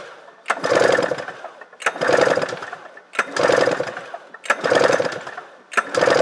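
2002 Arctic Cat ZR 600 EFI's two-stroke twin engine being cranked over by its recoil pull-starter for a compression test on the magneto-side cylinder: about five pulls, each a sharp click and a whirr of the engine turning over that fades before the next. The gauge reads 120 psi, healthy compression.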